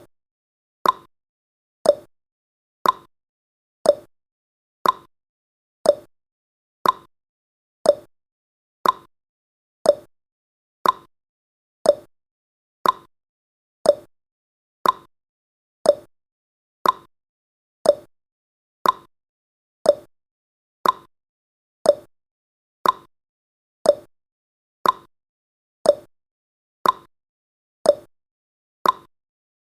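Countdown timer sound effect: a short tick once every second, evenly spaced, each dying away quickly.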